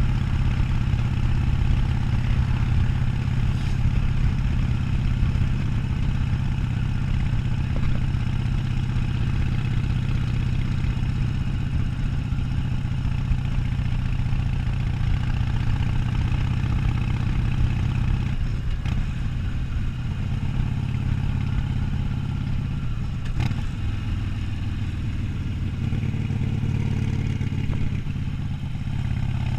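Harley-Davidson Sportster 1200's air-cooled V-twin running steadily while the motorcycle cruises.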